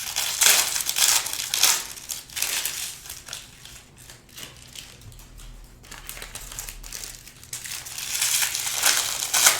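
Plastic wrapping crinkling and rustling as trading card packs and cards are handled. Loudest near the start and again near the end, with a quieter stretch in between.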